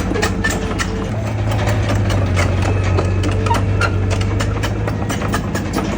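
Heavy diesel engine of an earthmoving machine running steadily, its low hum rising slightly about a second in. Irregular clicks and knocks run over it throughout.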